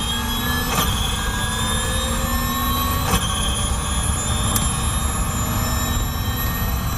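High-revving racing engine accelerating, its pitch climbing slowly, with two quick gear changes, about a second in and about three seconds in.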